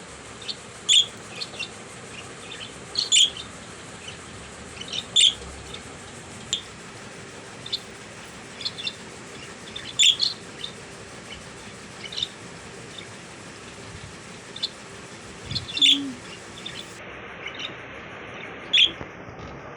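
Budgerigars chirping: short, sharp, high chirps, the loudest every two seconds or so, with softer chirps in between.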